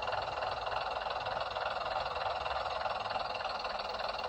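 Sound decoder of a Bachmann Class 101 DMU model playing its diesel engine sound through the model's small speaker, running steadily.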